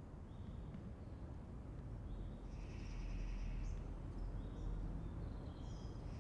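Birds calling: several short, steady high whistles, some overlapping in the middle, over a low rumble.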